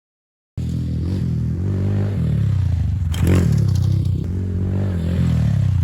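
Dirt bike engine running loud, with the revs rising and falling. It cuts in suddenly about half a second in, and there is a brief clatter about three seconds in.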